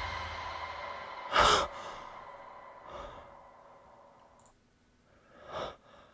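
A person sighing out loud about a second and a half in, with a softer breath around three seconds and another near the end. Under it, the last chord of a heavy metal song rings out and fades away within the first four and a half seconds.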